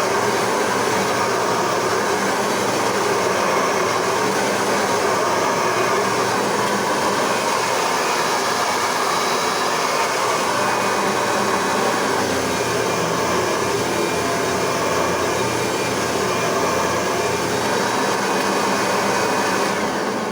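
Eureka Powerline soft-bag upright vacuum with a 9-amp motor running steadily. It is switched off near the end and the motor winds down.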